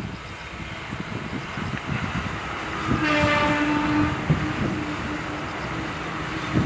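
A train running past with a steady rumble; about three seconds in its horn sounds, a single held tone, loudest for the first second or so and carrying on more weakly for about three seconds.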